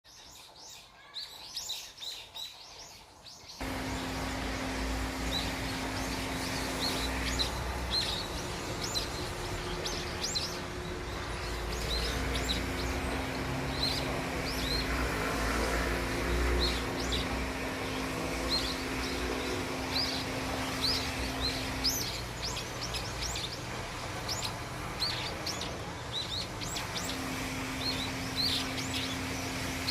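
Many small birds chirping and twittering in quick, short notes. About four seconds in, a steady background noise with a low hum comes in under them, and the hum drops out and returns a few times.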